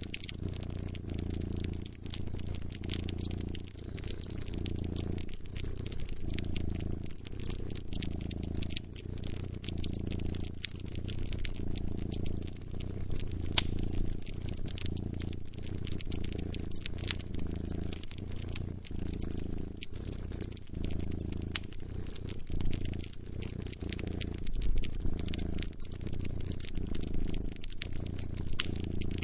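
A cat purring in a steady, pulsing low rumble, with the pops and crackles of a wood fire scattered over it.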